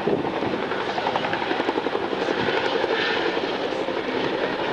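An aircraft flying at an airshow, its engine noise a steady, rapid throbbing beat.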